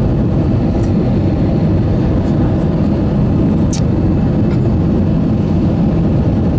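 Steady low rumble inside the passenger cabin of an Airbus A320-214 with CFM engines, with a brief sharp click a little past the middle.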